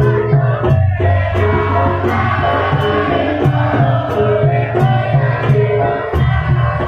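Live Javanese gamelan music: struck metal keys and gongs ring steady notes over a regular drum beat, with voices singing or chanting along.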